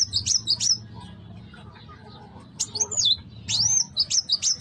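A young kuwul bird singing: two quick phrases of high swooping whistles and sharp chirps, the first at the very start and the second about two and a half seconds in, with a short pause between.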